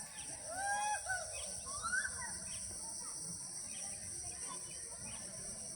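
A steady, high insect drone, with a few short arched calls in the first two seconds and a quick rising call about two seconds in.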